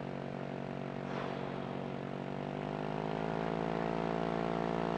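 Light aircraft's liquid-cooled two-stroke engine and propeller idling on the ground while it warms up, the pitch rising a little about two seconds in as the revs pick up. A brief hiss about a second in.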